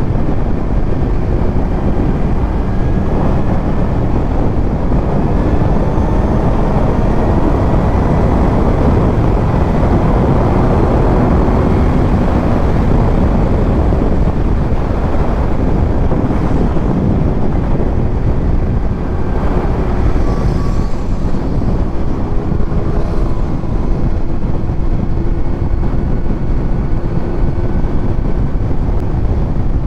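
Kawasaki Z900's inline-four with a titanium Arrow exhaust running while the bike is ridden along, its note drifting slowly up and down in pitch, under heavy wind rush on the rider's microphone.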